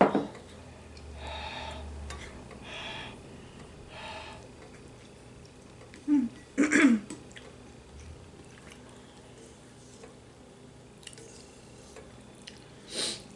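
A person eating soup: soft chewing and slurping sounds, broken by a few short, loud throat or mouth sounds near the start, around the middle and near the end.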